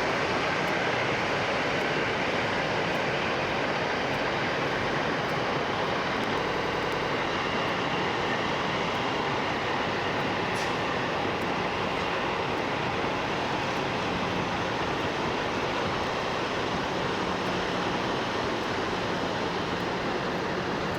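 Steady background din of idling diesel semi-trucks in a busy truck-stop lot, with a faint low engine hum underneath.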